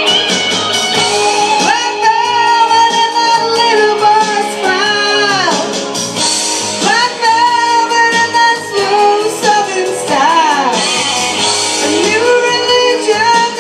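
Live band playing a slow rock song: guitars and a lead melody line of long held notes that slide and bend in pitch.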